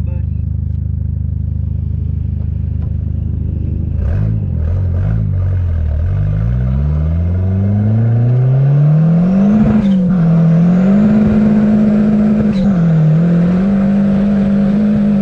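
Big-turbo Dodge Neon SRT-4's turbocharged 2.4-litre four-cylinder engine idling, then revving up steadily over about five seconds and holding high revs, with two brief dips in pitch, before dropping near the end.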